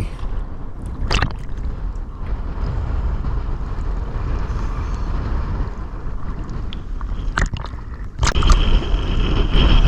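Choppy sea water sloshing and gurgling around a GoPro housing at the surface, with a few sharp knocks. About eight seconds in, a louder steady motor rumble with a high whine comes in.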